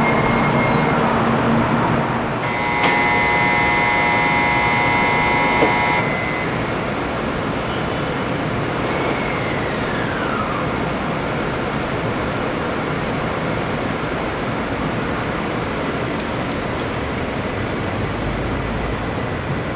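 700 Series Shinkansen train at a station platform. About two seconds in, a steady electronic signal of several tones sounds together for about three and a half seconds over the steady rush of the train and station. The train then moves off.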